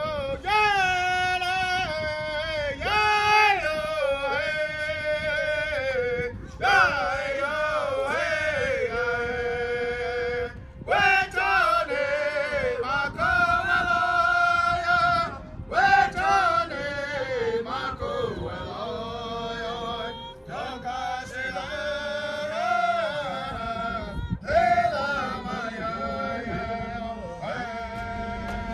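A man singing a chant-like song in long, wavering held notes, phrase after phrase with short breaks between them.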